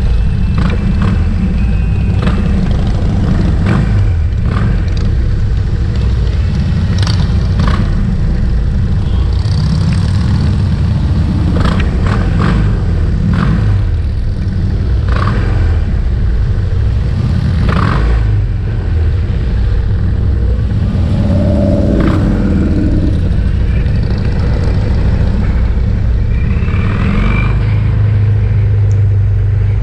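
A dense stream of motorcycles riding past, their engines making a continuous low rumble, with scattered short clicks through it.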